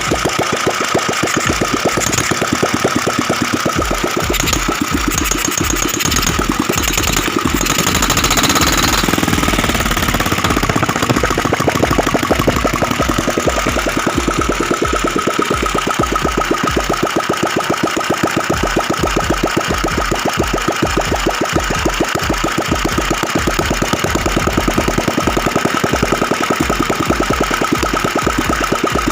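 Ratna 350cc single-cylinder diesel engine, converted to run on Pertalite petrol with a carburettor and CDI spark ignition, running with an even firing beat. It is briefly louder and busier about ten seconds in, then settles back.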